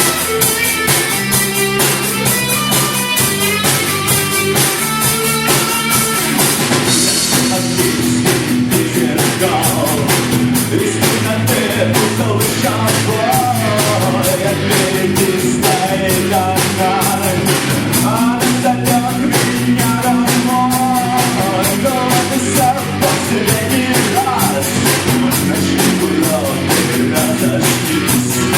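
A live rock band playing, with a drum kit keeping a steady beat under guitars. The drumming gets fuller and busier about seven seconds in.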